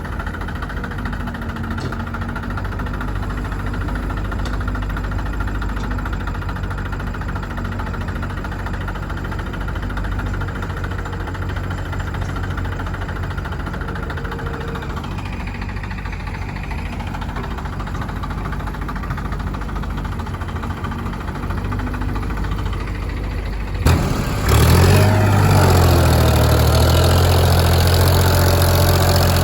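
Heavy diesel engine running steadily at low revs. About 24 seconds in, the sound changes abruptly to a louder, deeper engine note.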